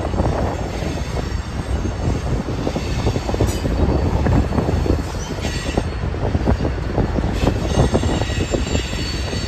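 Freight train of tank cars rolling through a rail yard, its steel wheels clattering and knocking over the track. High-pitched wheel squeal rises briefly a few times, about three and a half seconds in, around five and a half seconds, and again near eight seconds.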